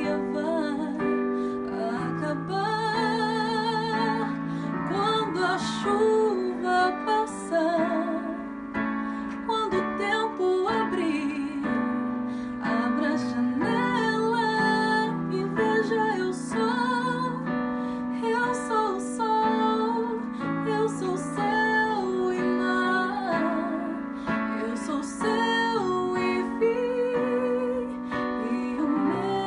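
A woman singing with piano accompaniment, her voice wavering with vibrato on held notes.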